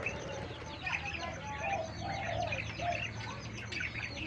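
Budgerigars chattering: a continuous stream of short chirps and warbling notes.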